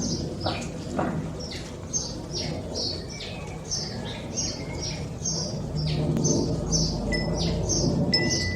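Songbirds chirping: a short high chirp repeated about twice a second, with other bird calls mixed in, over a low background rumble.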